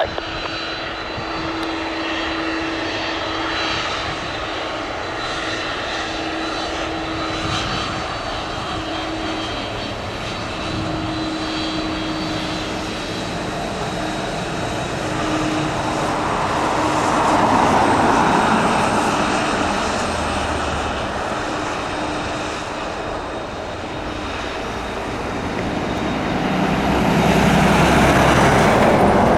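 Jet engines of a Boeing 767-300 freighter running: a steady whine over a rushing roar that swells louder about halfway through and again near the end.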